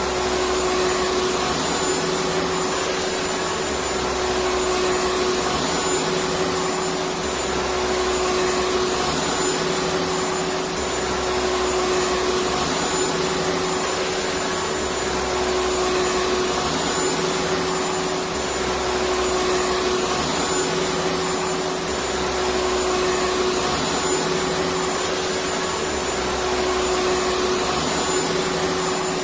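Vacuum cleaner motor running steadily, a continuous whooshing whine with a steady tone through it. Underneath, a low hum swells and fades in a slow, regular rhythm.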